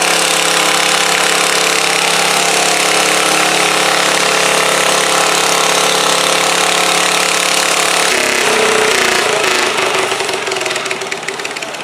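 Garden pulling tractor's engine running hard at steady high revs, then dropping off about eight seconds in as the throttle is let off, and fading.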